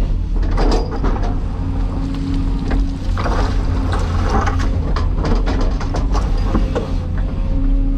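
Cat 336E hydraulic excavator's six-cylinder diesel engine running steadily under work, with a droning tone that comes and goes and many short knocks and clatters.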